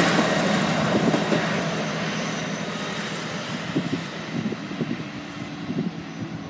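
East Midlands Railway Regional diesel multiple unit passing over the level crossing and running away. Its rumble and rail noise fade steadily, and the high hiss dies out about four seconds in.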